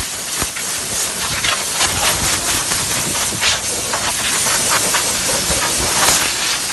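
Steady hissing spray as a car engine bay is washed down with a cleaner.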